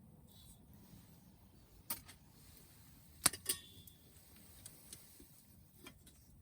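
Small wood campfire crackling: a few sharp pops over a faint background, the loudest pair about three seconds in, the second followed by a brief metallic ring.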